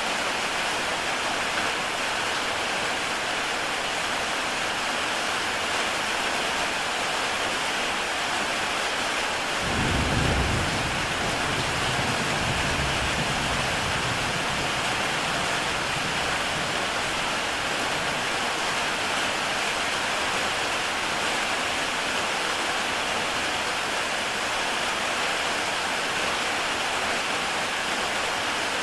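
Heavy rain falling steadily on a tile roof. About ten seconds in, a low rumble of thunder swells suddenly and fades over a few seconds.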